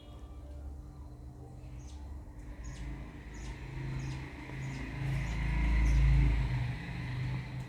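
Pet budgerigars chirping faintly over a low rumble that swells to its loudest about five to six seconds in.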